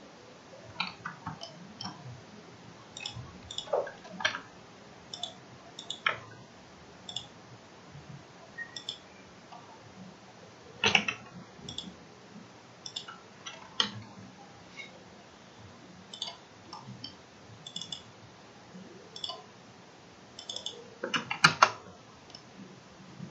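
Irregular clicks of a computer mouse and keyboard keys, one or two at a time, with a louder quick run of clicks near the end.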